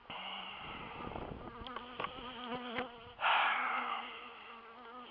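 Honey bees buzzing close to the microphone, several flying about with wavering pitch; the colony is agitated after its hive was disturbed. A brief loud noise about three seconds in.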